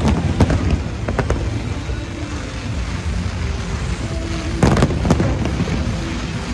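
Fireworks bursting: a few sharp bangs in the first second and a half, then a quick cluster of bangs about five seconds in, over a steady background din.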